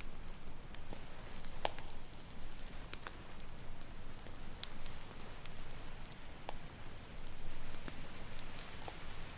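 Campfire crackling, with sharp irregular pops scattered through, over a steady low wash of ocean waves.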